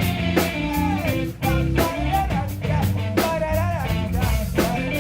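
Live rock band playing: drum kit keeping a steady beat under bass and guitar, with a melodic line that bends up and down over the top.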